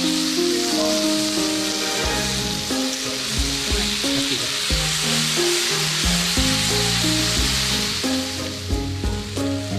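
Food frying in a hot pan, a steady sizzle, with background music of short melodic notes playing over it.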